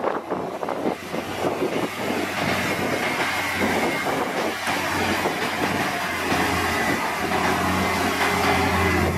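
Heavy diesel machinery running steadily, with a low engine hum that grows stronger toward the end and a thin high whine above it.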